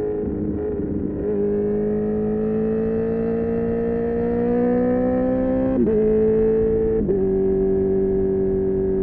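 Honda CB1000R's inline-four engine through an Akrapovic exhaust, pulling under steady throttle with its note climbing slowly. About six and seven seconds in there are two quickshifter upshifts: the note drops sharply each time with a brief break, then holds steady.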